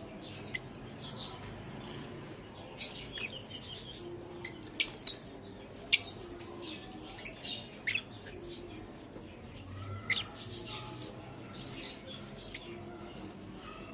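Lovebirds giving short, sharp, high-pitched chirps and squawks at irregular intervals, with a quick rattling flurry about three seconds in and the loudest calls between about five and eight seconds in.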